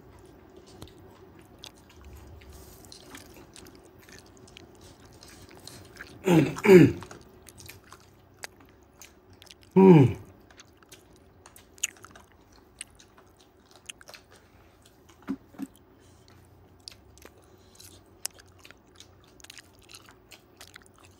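Close-miked eating: chewing with small wet mouth clicks as rice and pork curry are eaten, over a faint steady hum. Twice, about six and ten seconds in, a loud short vocal exclamation falls in pitch.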